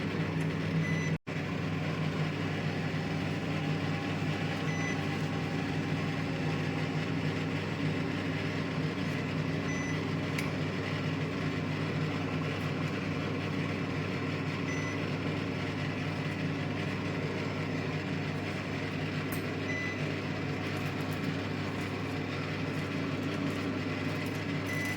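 IFB microwave oven running on convection at 200 degrees, a steady mechanical hum. A faint short beep comes about every five seconds, and the sound cuts out for an instant about a second in.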